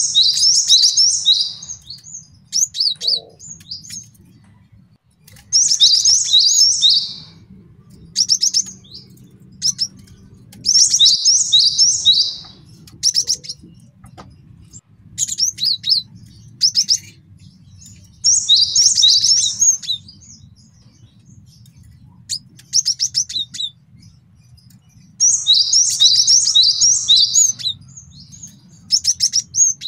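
Male cinereous tit (gelatik batu) singing: bouts of quick, high chirping notes, each about one to two seconds long, repeated every few seconds. A faint low hum runs underneath.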